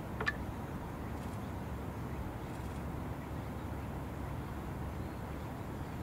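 A single short bird call sounds about a third of a second in, over a steady low rumble.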